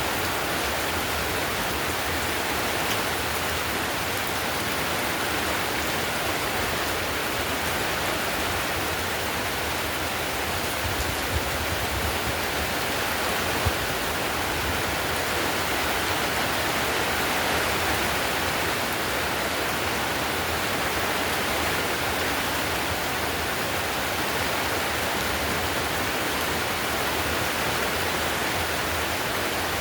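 Heavy rain pattering steadily on a clay-tile roof, a dense even hiss with a few slightly louder drips about halfway through.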